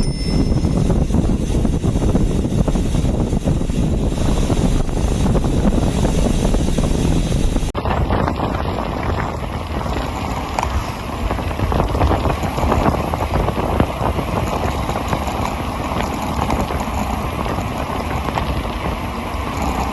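Wind buffeting the microphone during a fast bicycle descent, a loud steady rush that changes character abruptly about eight seconds in.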